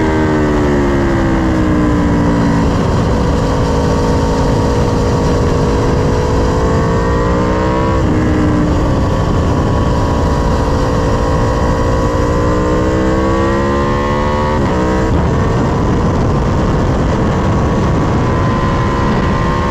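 Sport motorcycle engine under hard track riding: its pitch falls for the first few seconds as the bike slows, then climbs steadily under full throttle, dropping abruptly twice at upshifts. Heavy wind rush underneath.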